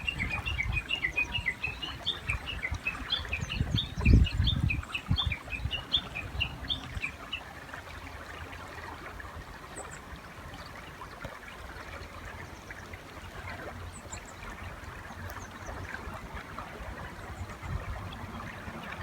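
Japanese bush warbler giving a long, rapid run of short chirping notes for about seven seconds, then only an odd faint note, over steady river noise. Low rumbling thumps come with the run, loudest about four seconds in.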